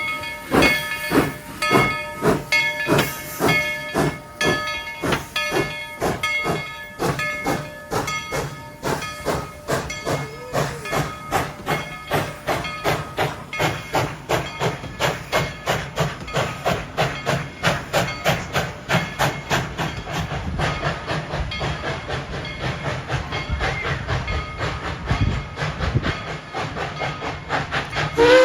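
Narrow-gauge steam locomotive #190, a Baldwin 4-6-0, chuffing as it works, the exhaust beats steady and gradually quickening from about two a second to nearly four, with steam hissing.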